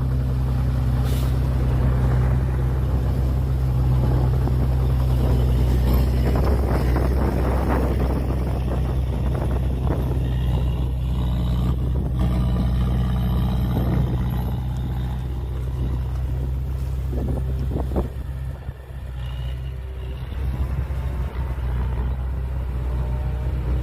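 Heavy diesel engine of earthmoving machinery running steadily with a deep, even hum, rougher and noisier through the middle stretch, with a brief drop in level about three-quarters of the way through.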